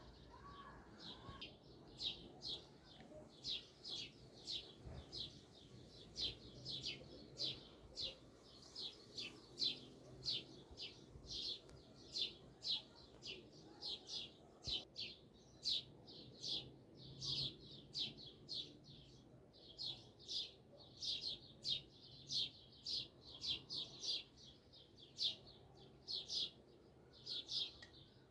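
Birds chirping over and over, short high chirps two or three a second, with a low steady hum underneath.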